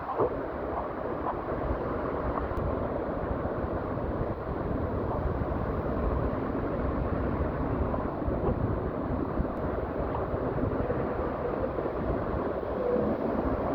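Wind rushing over the microphone with steady road noise as an electric scooter is ridden.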